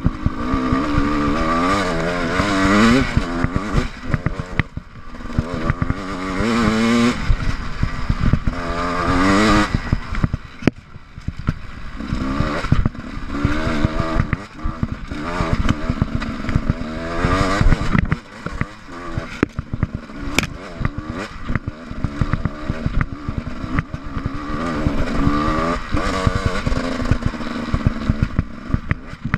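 GasGas EC 300 two-stroke enduro motorcycle engine revving up and easing off over and over, about six rising surges, with clattering and knocks from the bike over rough, rocky ground.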